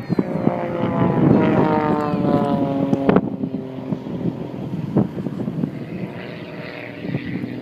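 Propeller-driven aerobatic airplane engine running overhead, its pitch sliding slowly downward during the first few seconds. There is a sharp click about three seconds in.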